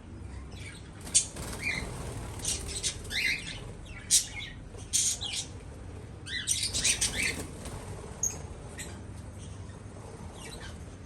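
Small aviary birds chirping and calling in short, sharp bursts. The loudest calls come about one, four and five seconds in, with a busy cluster around seven seconds.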